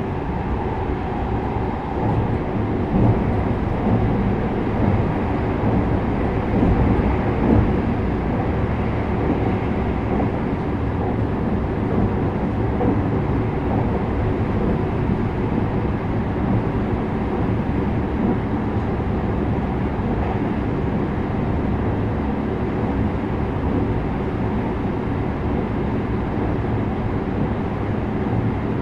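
JR West 321 series electric train running at speed, steady rumble of wheels on rail with motor hum, heard inside the car. A mid-pitched motor whine fades in the first second, and a few louder knocks come in the first eight seconds.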